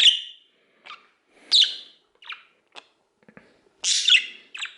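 Budgerigar chirping loudly right beside the ear in a string of short, sharp calls. The loudest calls come near the start, about a second and a half in, and around four seconds in.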